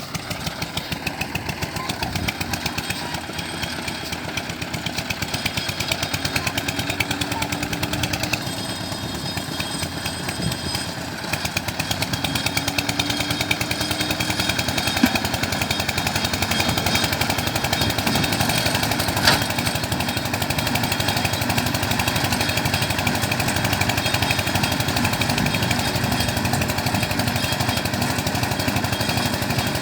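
Tractor diesel engine running steadily with a fast, even knocking beat, growing louder about twelve seconds in.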